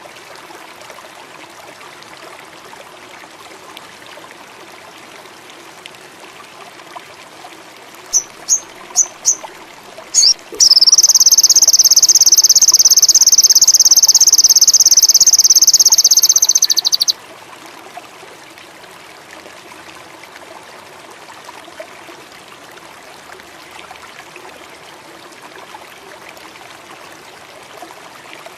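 Sogon indigo birdsong: four short, high, upward-flicking chirps about eight seconds in, then a loud, high, fast buzzing trill held for about six seconds before it cuts off. Steady trickling water runs underneath throughout.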